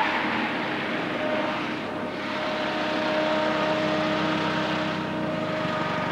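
Turbocharged Mercedes 190E's engine running at steady revs while it is driven on the track, with a rush of wind and tyre noise.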